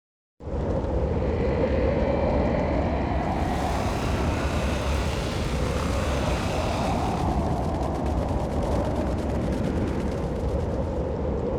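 A loud, steady rumbling noise that starts abruptly and runs on without a break, with a wavering hum in the middle of its range.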